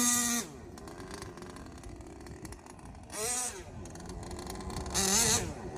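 Savage Octane RC truck's small gasoline engine coming off a high rev to idle about half a second in. It idles steadily, and the throttle is blipped twice, briefly, later on.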